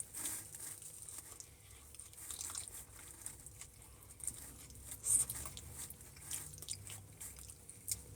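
A person chewing and biting into pizza close to the microphone, with scattered small crunches and mouth clicks over a faint steady low hum.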